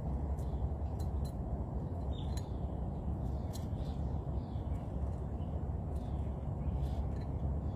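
A steady low outdoor rumble, with faint, scattered short bird chirps throughout.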